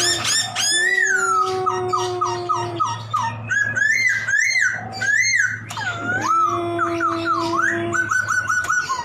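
Poksay (laughingthrush) in full song: quick runs of repeated short rising notes and swooping whistles. A steady low tone is held under the song twice, for about two seconds each time.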